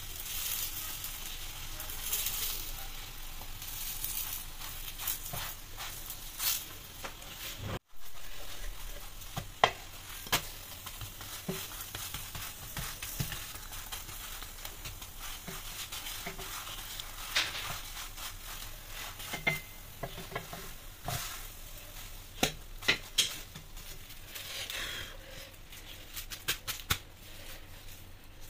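Laccha paratha frying in ghee in a pan, sizzling steadily, with scattered light taps and clicks as it is brushed and turned.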